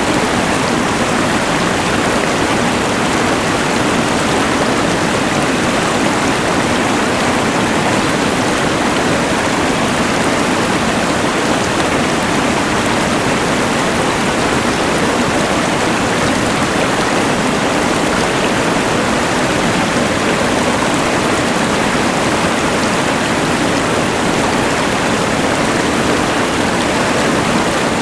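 Rushing mountain river blended with the hiss of a LectroFan white noise machine: a loud, even rush of water and noise that does not change.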